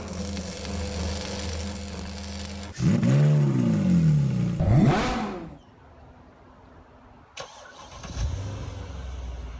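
Mercedes-Benz W212 E500's V8 exhaust through aftermarket RCP rear mufflers, idling, then blipped twice with the pitch rising and falling, before settling back to a low idle.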